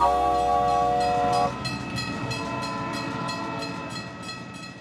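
Train horn sounding one held chord for about a second and a half, then the rhythmic clickety-clack of train wheels over rail joints that slowly fades away.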